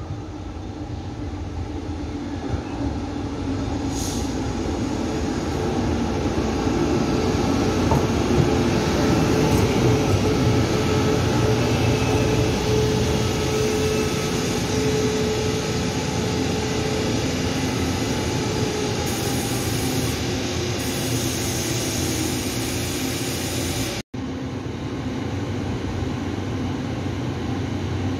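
A Taiwan Railway E1000 push-pull Tze-Chiang express train running in along the platform. The rumble of its cars and wheels grows louder over the first several seconds, with a faint steady tone under it for a while, then holds steady as the train slows to a stop.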